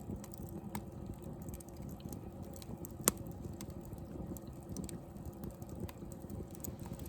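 Wood fire in a fire pit crackling, with scattered small pops and one sharp, loud pop about three seconds in.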